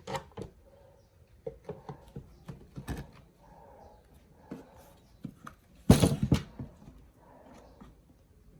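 Scattered clicks and knocks of tools and small parts being handled while working on a chainsaw, with a louder clattering run of knocks about six seconds in.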